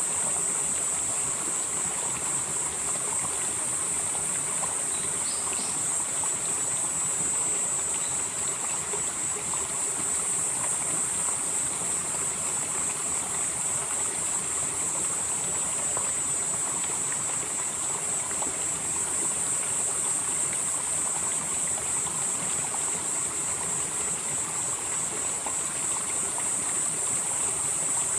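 Valley stream flowing steadily, with a continuous high-pitched insect chorus over it that swells and eases a little from time to time.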